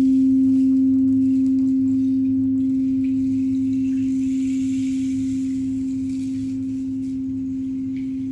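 A single low, steady ringing tone that slowly fades away, with faint overtones above it.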